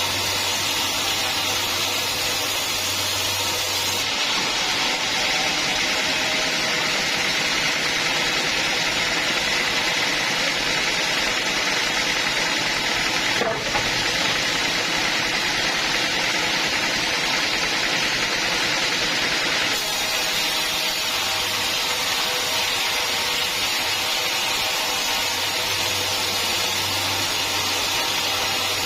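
Sawmill saw running steadily through a teak log: a continuous noisy whir whose tone shifts slightly between about 4 and 20 seconds in.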